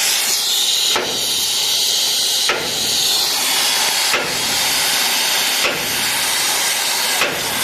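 Hammer blows on steel, five of them about a second and a half apart, over a steady loud hiss.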